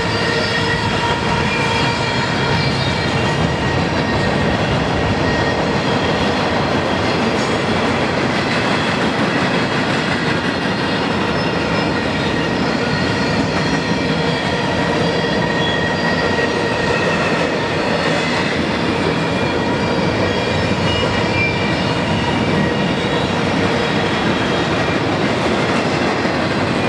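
Freight cars of a Union Pacific manifest train rolling past on curved track: a steady, loud rumble of steel wheels on rail, with several steady high tones of wheels squealing against the rail.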